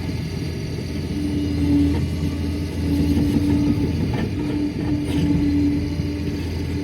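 Liebherr PR 746 crawler dozer's diesel engine running steadily. A higher hum rises out of it and fades several times, with a few faint knocks.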